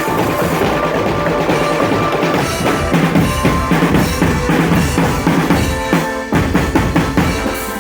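Marching drum band playing: rapid snare and bass drum beats with a melodic line held over them.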